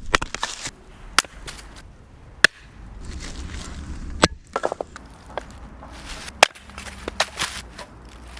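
Wood being chopped: about ten sharp, irregular chopping knocks, some a second or two apart, some in quick pairs.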